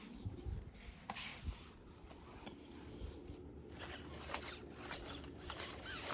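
Quick scratching and rubbing strokes in irregular bursts, busiest over the last few seconds.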